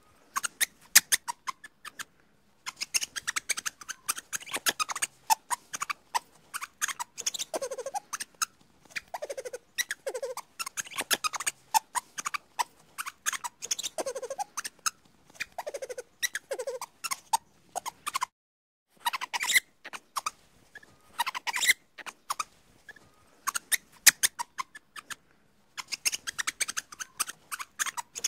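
Small animal squeaking in short falling chirps amid rapid clicking, in clusters broken by brief silent pauses.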